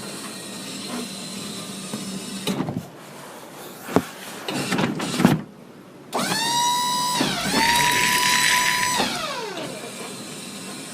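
Small electric motor spinning up with a rising whine, running steady for about two seconds with a gritty gear noise, then winding down. A few clicks and knocks come before it.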